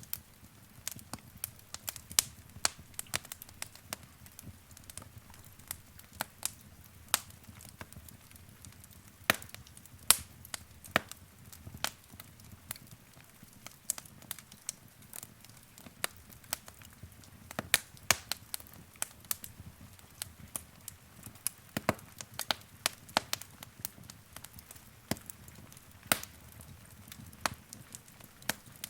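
Wood fire crackling: irregular sharp pops and snaps, several a second at times, over a faint low rumble of burning.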